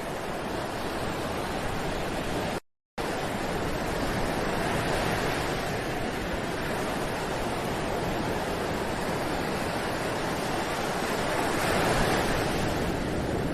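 Ocean surf washing steadily onto a beach, with one wave swelling louder near the end. The sound cuts out completely for a split second between two and three seconds in.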